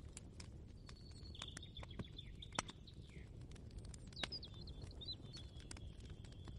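Small birds chirping faintly in short, quick notes, with scattered light clicks and taps over a low background rumble.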